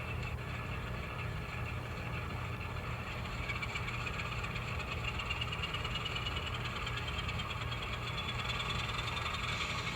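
N scale model locomotive running on the layout: a steady low hum with a thin motor whine that climbs slowly in pitch through the second half.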